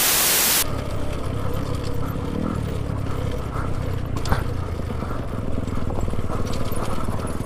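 A loud burst of hiss for about the first half second, then dirt bike engines running with a steady low rumble and a few clicks and rattles.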